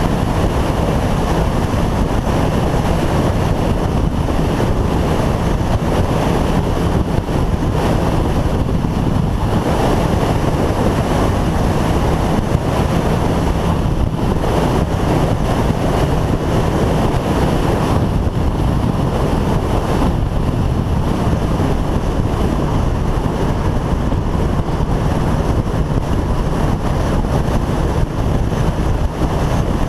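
Motorcycle riding at a steady cruising speed: heavy wind rushing over the microphone, with the engine's steady drone underneath.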